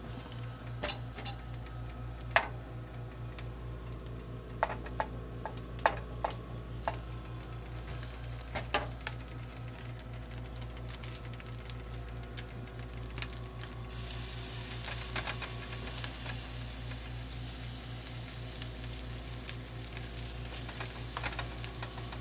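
A few sharp taps and clicks of a spoon in a skillet over a steady low hum. About two-thirds of the way in, a steady sizzling starts and keeps on: cornbread batter frying in hot lard.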